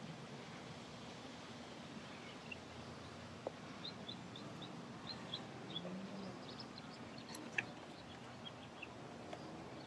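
Faint birds chirping in short, high notes, repeated from about two seconds in, over a steady background hiss. A couple of light clicks are heard.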